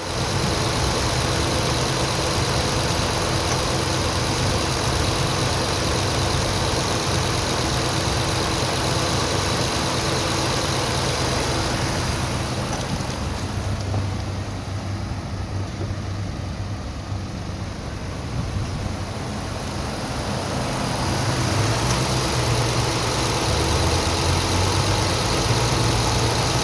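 Ford 5.0 L Gen 2 Coyote V8 of a 2016 F-150 idling steadily, growing somewhat fainter for several seconds around the middle before returning to its earlier level.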